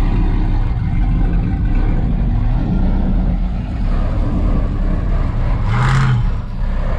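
Vehicle engine running hard and loud during a burnout, with a brief louder rev about six seconds in.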